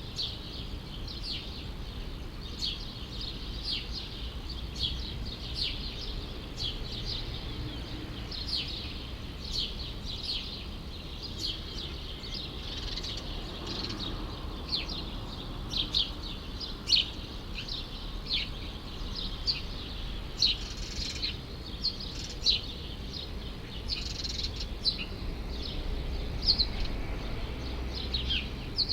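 Small birds chirping continuously in a city courtyard: many short, high chirps, several a second, over a steady low rumble of distant city traffic.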